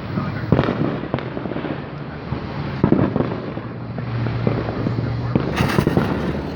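Consumer fireworks going off: a running crackle of many small pops with several louder bangs, the sharpest burst coming near the end.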